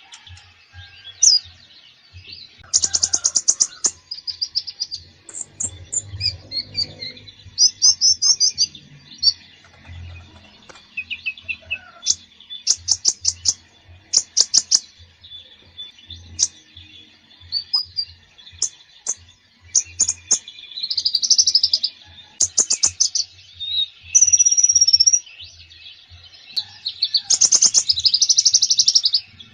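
Konin songbird in full, busy song: a varied run of chirps, fast trills and whistled phrases, with dense bursts of rapid repeated notes about 3, 8, 13–15, 21 and 27–29 seconds in. A low steady hum runs underneath.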